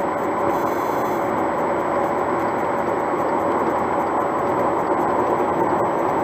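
Steady road and engine noise heard inside a moving car's cabin at cruising speed: an even rush of tyre and wind noise with a faint constant hum.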